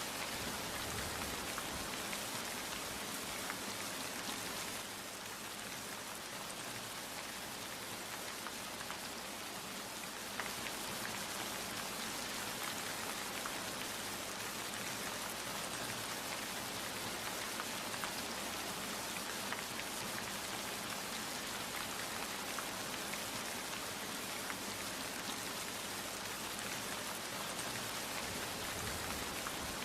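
Steady rainfall, many drops pattering on a surface, a little softer for a few seconds about five seconds in.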